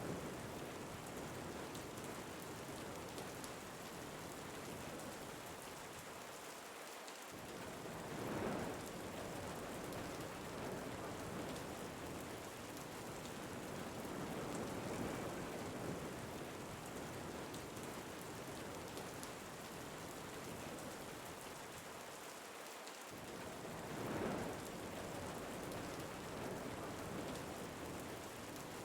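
Steady rain with wind, an even hiss of falling rain that swells briefly twice, about eight seconds in and again near the end.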